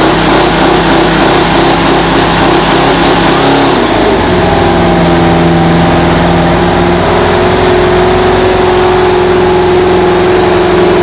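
Competition pulling tractor's engine running loud, stepping up in revs about four seconds in and then holding a steady high note, with a thin high whistle over it.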